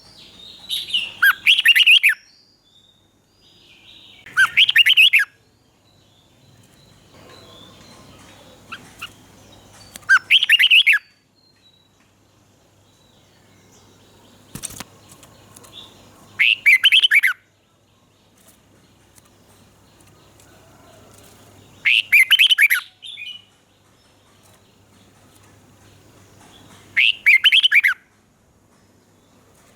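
Red-whiskered bulbul singing short, loud warbled phrases, six in all, each about a second long, with pauses of four to six seconds between them.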